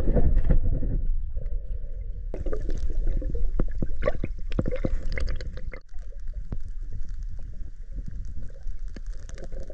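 Water sloshing and gurgling around swimmers, with a heavy low rumble and many small clicks and splashes. The sound changes abruptly twice, as one short shot gives way to the next.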